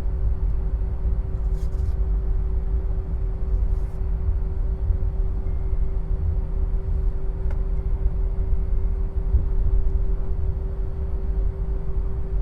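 Airliner cabin noise after landing: a steady low rumble with a constant hum, and a few faint clicks.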